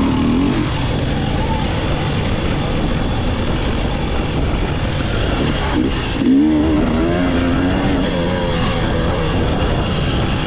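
Off-road motorcycle engines running and revving, with a rise and fall in pitch about six seconds in.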